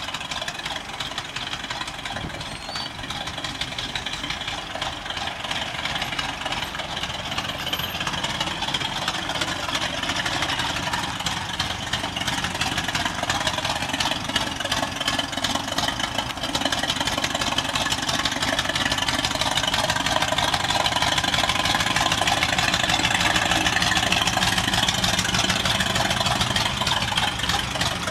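Ford Ranch Wagon's engine running at low speed while the car manoeuvres, growing steadily louder as it comes closer and easing off slightly near the end.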